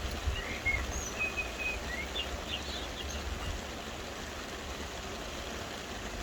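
Soft rain falling as a steady hiss, with a low rumble underneath. Birds chirp over it during roughly the first three seconds.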